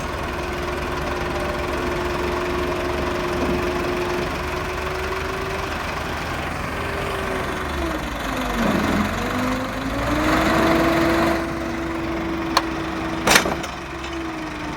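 Tractor engine running steadily. About eight seconds in its speed sags and then recovers, as if it is straining to pull the stuck tractor free. Near the end there is a click and then a loud, sharp knock.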